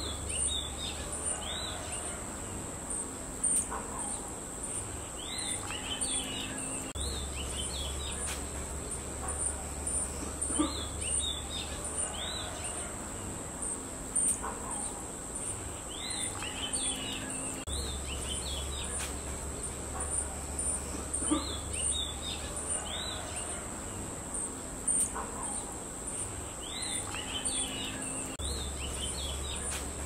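Small garden birds chirping in short clusters of quick rising notes every few seconds, over a steady high-pitched hiss.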